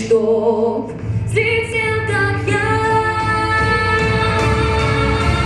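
A teenage girl singing a pop song solo over a backing track. She holds long sustained notes without clear words.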